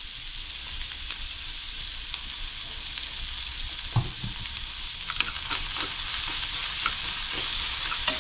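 Sliced cabbage sizzling steadily as it is stir-fried in a hot pan with oil and butter, with scattered clicks of the stirring utensil against the pan from about four seconds in.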